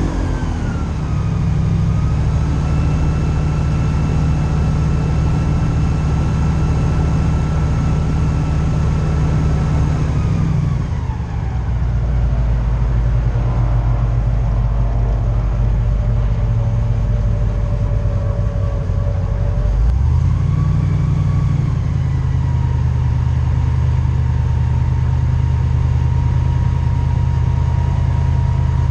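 Airboat engine and propeller running hard under way, with a steady loud drone. About a third of the way in the throttle eases off and the pitch drops; it opens up again a little over two-thirds of the way through.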